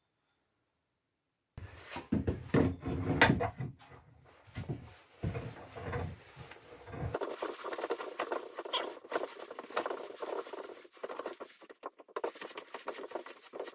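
Workshop handling sounds of the scrap-wood vise being put together: irregular knocks of wood and metal parts about two seconds in, then from about halfway a dense run of rapid scraping and clicking.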